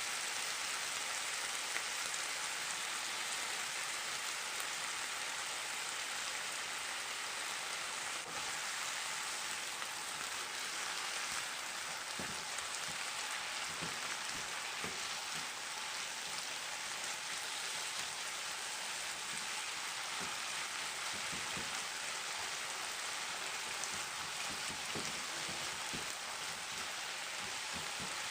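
Strips of liver frying with sliced peppers and hot chili in a hot pan: a steady sizzle, with a few soft knocks in the second half.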